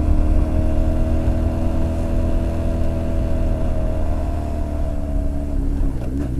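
Honda X4's inline-four engine running steadily under way on a ride. Near the end the engine note drops briefly, then picks up again.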